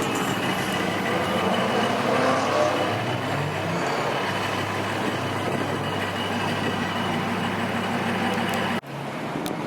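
A vehicle engine runs steadily with a low drone over general street noise. The sound breaks off abruptly near the end.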